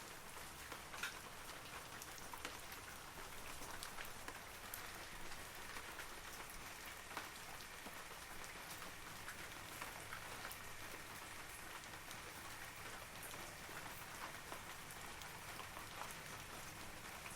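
Steady rain falling on forest leaves, a soft even hiss dotted with the ticks of individual drops.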